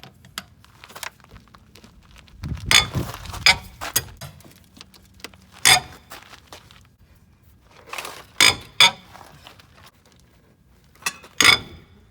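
Lug wrench clanking on a car wheel's lug nuts as they are cracked loose: a handful of sharp metal knocks a few seconds apart, with a longer stretch of thuds and rattling about three seconds in.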